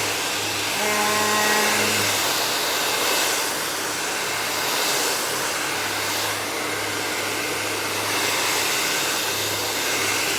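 Handheld blow dryer running steadily while blow-drying hair: a continuous rush of air over a low hum, rising and falling slightly in loudness as it is moved.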